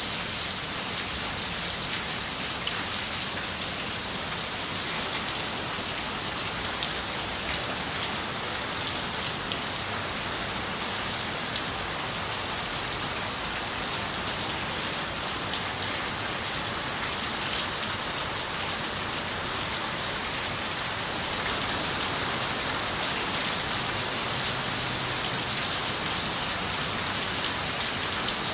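Steady rain, a continuous hiss with scattered sharp drop ticks, growing a little heavier about three quarters of the way through.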